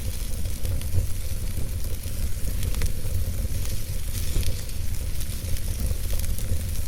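Wood fire of burning logs in a fireplace crackling, with scattered sharp pops over a steady low rumble and hiss.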